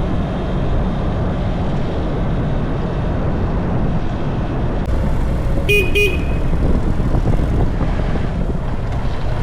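Steady low road and wind rumble of motorcycle travel, with a vehicle horn beeping twice in quick succession about six seconds in.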